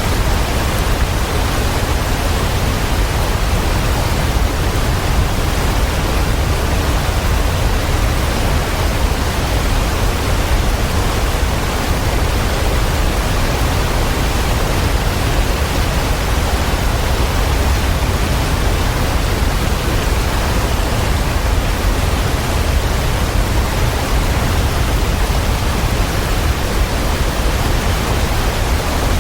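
Waterfall: a steady, full rush of falling water with a deep low rumble, unchanging throughout.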